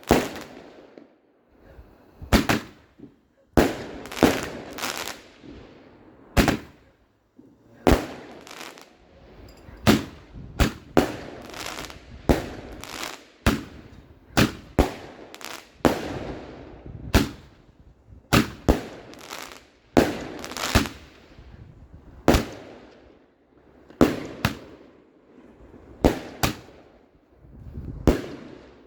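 Fireworks going off in a long, irregular run of sharp bangs, roughly one a second, each followed by an echoing tail.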